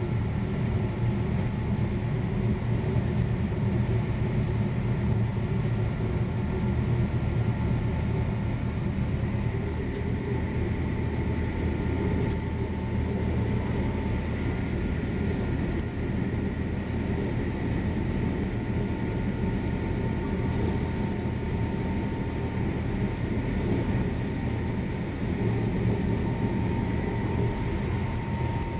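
Class 222 Meridian diesel-electric train running, heard from the vestibule by the doors: a steady low rumble with a few faint steady whines above it.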